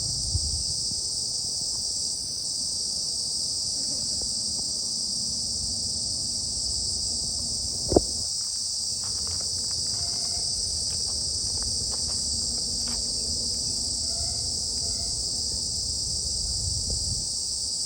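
A steady, shrill chorus of forest insects running without a break, with a low rumble under it. There is a single sharp click about eight seconds in.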